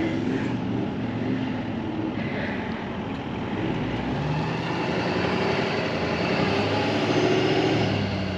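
Tow vehicle's engine running and revving, its note building about halfway through and easing off near the end, as the bogged truck is rocked a little to take the load off the caravan hitch so it can be unhitched.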